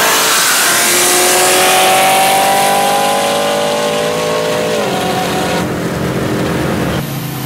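Pontiac G8 V8 engines at full throttle in a drag race, engine pitch climbing steadily for about four seconds, then falling off about five seconds in as the throttle lifts or a gear changes.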